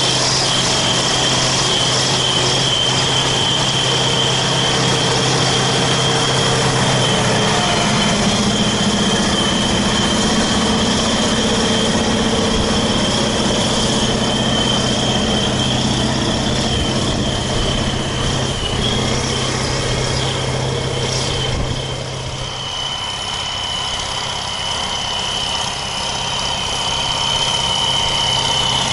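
A tractor's diesel engine running steadily, with a steady high-pitched whine over it. Near the end the engine eases off a little.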